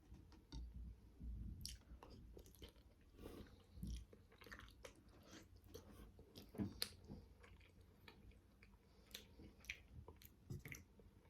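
Quiet, close-up chewing of manti, steamed meat dumplings, with scattered small clicks and smacks of the mouth at irregular intervals.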